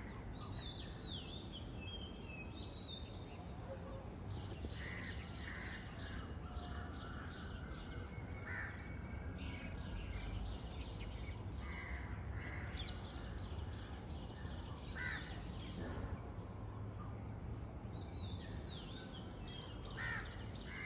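Crows cawing now and then, single short caws a few seconds apart, over smaller birds chirping and trilling in a morning chorus, with a steady low background rumble.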